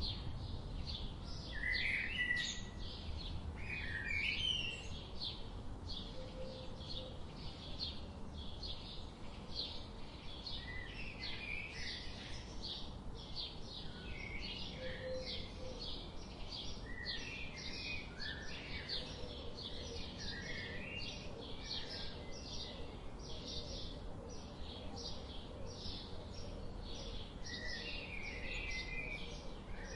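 Birds chirping: a steady run of short, high chirps, about two or three a second, with lower warbling calls from other birds now and then, over a low rumble.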